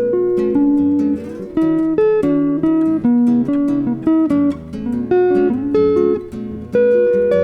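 Guitar duo of a nylon-string flamenco guitar and a Telecaster electric guitar playing a plucked jazz melody over chords and bass notes.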